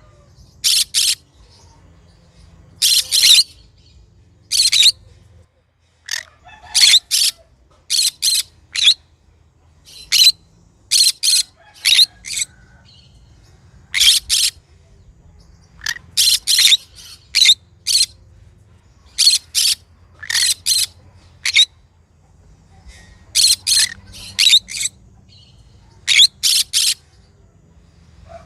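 Green conure calling: sharp, high-pitched chirps and squawks, often in quick runs of two to four, with short pauses between runs.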